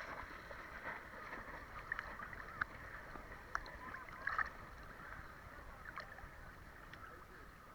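Faint sea water lapping and splashing, with scattered short, sharp splashes.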